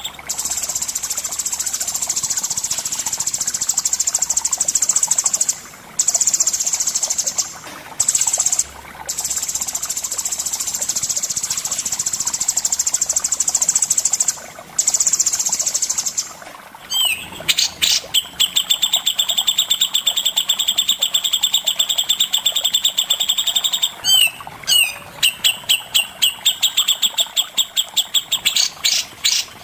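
Songbird singing rapid, high, unbroken trills, cut by a few short breaks. From about two-thirds of the way through it changes to a run of separate quick repeated notes, about three a second.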